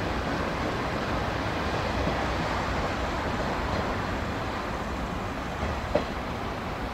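Electric multiple-unit train moving along the platform, a steady rumble of wheels and running gear, with a single sharp click about six seconds in.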